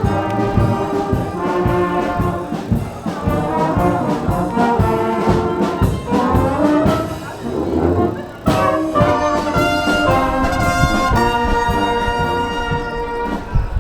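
Brass band music, trombones and trumpets playing held notes over a steady drum beat.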